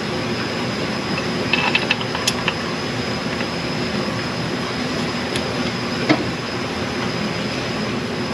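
A steady mechanical drone with a thin high whine above it, and a few light metallic clicks as cylinder-head bolts are set in by hand: a small cluster of clicks about two seconds in, and one more about six seconds in.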